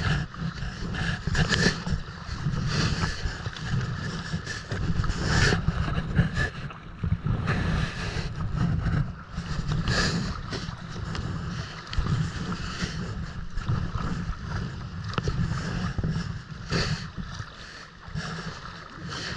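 Wind rumbling on the microphone over water splashing around a kayak at sea, with irregular splashes throughout.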